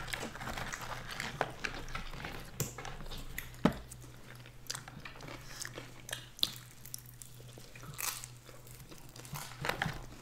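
Close-miked biting and chewing of pizza and crunchy red cheese puffs, a run of small wet clicks with a few sharper crunches.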